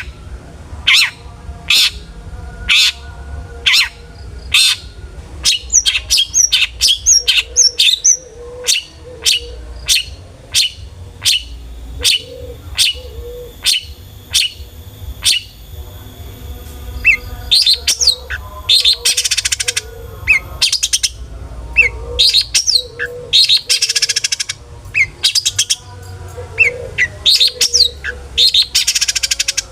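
Long-tailed shrike (cendet) calling: loud, sharp notes repeated about once a second, then quicker runs of notes mixed with harsh rasping chatter in the second half. This is the full, excited shrike song used as a lure to get other shrikes calling.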